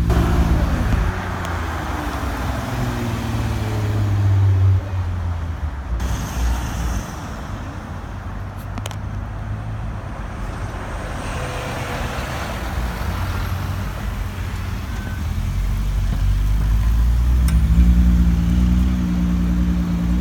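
Cars driving past on a street: an engine running steadily at the start, then tyre and traffic noise, and another car's engine note building and growing louder near the end.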